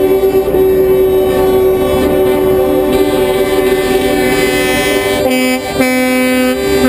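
Truck air horns blaring, several horns sounding together at different pitches, with a short break about five and a half seconds in.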